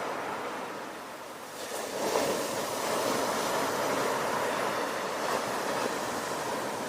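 Ocean waves breaking on a shore: the surf eases, then a wave swells and crashes about two seconds in, followed by a steady wash of foam.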